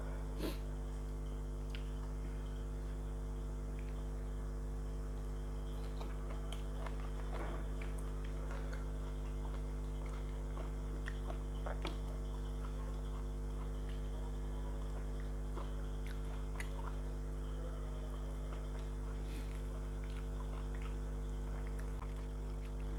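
Chewing and eating: scattered small clicks and crackles of food being bitten and chewed, over a steady low hum.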